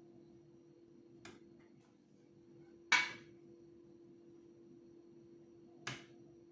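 Three separate knocks of something hard, the middle one loudest with a short ring after it, over a steady hum.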